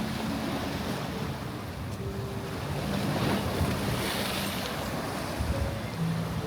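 Sea waves washing onto the beach, with wind buffeting the microphone: a steady rushing noise.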